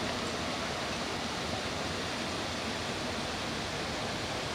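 Steady rushing noise with no distinct events: road and wind noise inside a moving vehicle.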